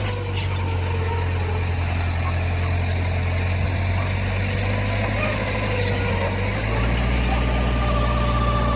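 Heavy diesel engine of earthmoving machinery running steadily, its low note growing stronger near the end, with a few short clicks at the start.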